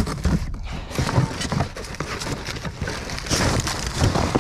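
Debris being handled and shifted in a dumpster: a sharp knock at the start, then irregular knocks, clatter and rustling.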